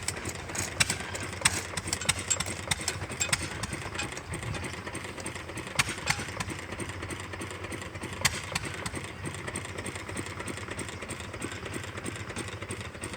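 Hit-and-miss stationary gas engine running, a steady low engine sound with sharp clicks at irregular intervals throughout.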